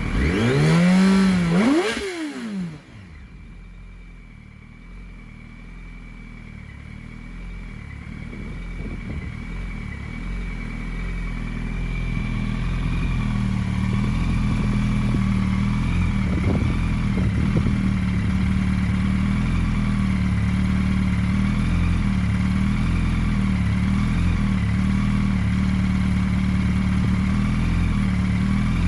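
2007–2008 Yamaha R1 inline-four with an Akrapovic Y-pipe and Scorpion canister exhaust, blipped once: the revs climb and drop back fast, the quick rise and fall the owner takes as a sign of a well-balanced built motor. It then settles to idle, and over several seconds a steady running sound builds and holds.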